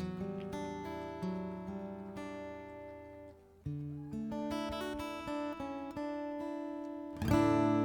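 Instrumental outro of a live pop ballad on acoustic guitar: picked notes ringing over one another. A loud full chord is strummed near the end and left to ring.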